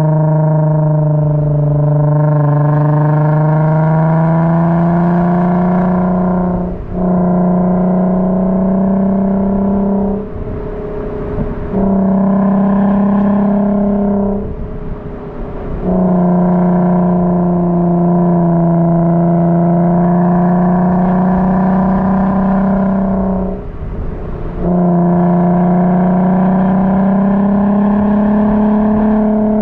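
A car engine running under steady load, its note slowly rising in pitch, broken four times by short dips where the throttle eases off before it pulls again.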